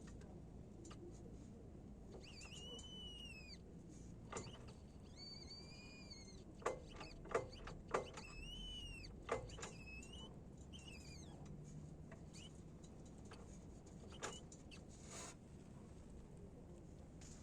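Repeated high-pitched squeak from a Renault Duster with 135,000 km on it, a fault the owner cannot identify. There are about five squeals, each roughly a second long, rising and then falling in pitch. Several sharp clicks come in the middle, and one more near the end.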